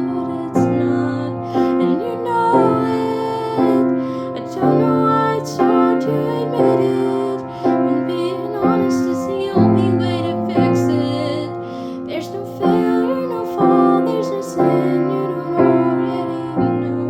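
Piano playing chords struck about once a second, with a woman's voice singing wordless lines over it.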